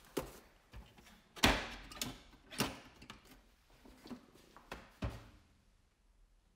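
Storage boxes and cases being handled: a string of knocks and clicks, the loudest about a second and a half in, dying away near the end.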